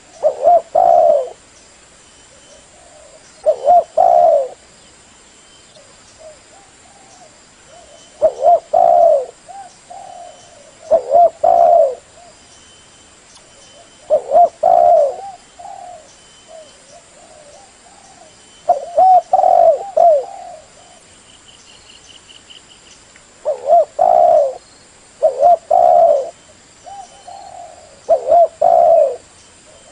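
Spotted dove cooing: repeated phrases of a few low coo notes, each phrase about a second long, coming every three to four seconds. A faint short high trill sounds about two-thirds of the way through.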